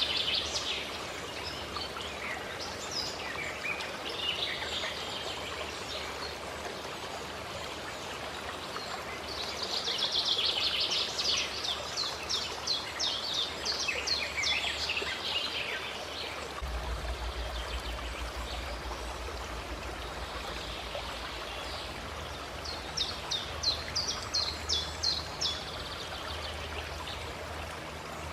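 Steady flowing stream with songbirds singing over it in two bouts of quick, repeated high notes, one in the middle and one near the end.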